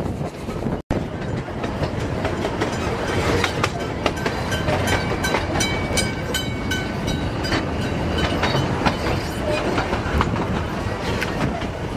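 Narrow-gauge steam train running, heard from an open carriage: a steady rumble with the clickety-clack of the wheels over the rail joints. From about four to eight seconds in, a repeated high ringing sounds as the train passes a level crossing.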